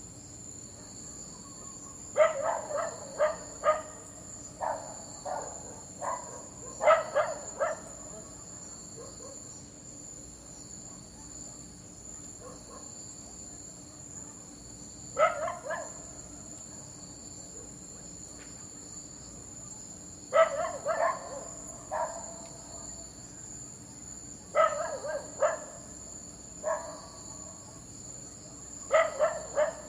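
A dog barking in clusters of a few sharp barks, with a long pause in the middle, over a steady high chirring of crickets.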